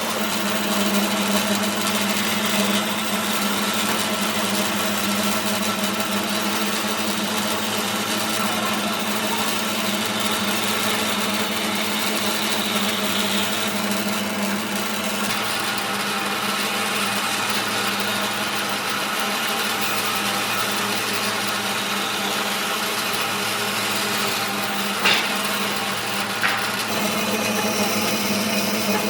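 Woodworking machine's electric motor running steadily with a constant hum, and two short sharp knocks near the end.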